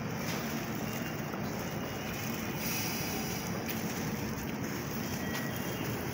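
Steady rushing noise of a train standing at a station platform with its doors open while passengers step off, with a few faint clicks.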